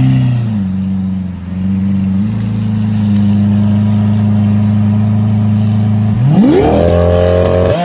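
Lamborghini Aventador V12 running at low revs with a steady deep note. About six seconds in, the revs climb sharply and hold high.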